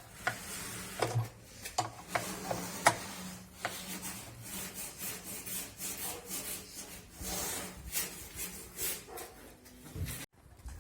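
Hand-tool work on a washing machine: irregular rasping and scraping with sharp clicks and knocks scattered through it, cutting off suddenly near the end.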